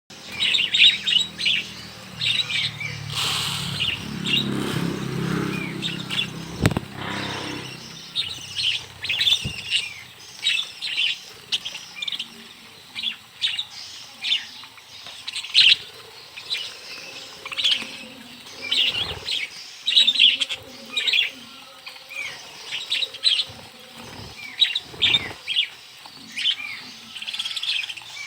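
A flock of budgerigars chirping and chattering in quick short calls, with a stretch of low wing fluttering in the first few seconds and a single sharp click about seven seconds in.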